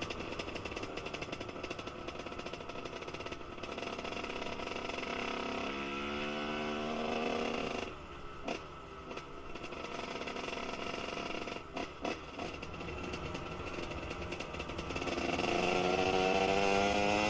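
Kawasaki KX 125 single-cylinder two-stroke engine through a Pro Circuit R-304 shorty silencer, its revs rising and falling with the throttle. The revs climb, cut off sharply about eight seconds in, then build again to a louder, higher pitch near the end.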